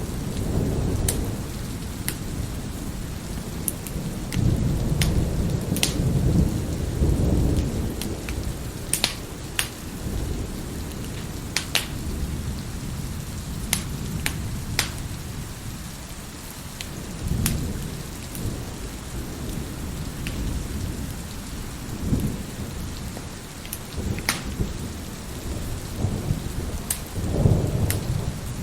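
Wood fire crackling with scattered sharp pops, over steady heavy rain and rolling thunder. The thunder swells several times, most strongly about a quarter of the way in and near the end.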